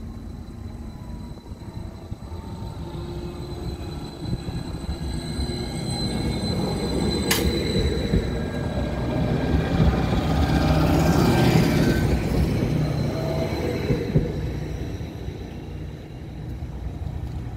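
Greater Anglia Class 755 bi-mode multiple unit, running on its diesel power packs, pulling away from the station and passing over the level crossing. The rumble of its engines and wheels builds to a peak about eleven seconds in, then fades as it moves away. There is one sharp click about seven seconds in.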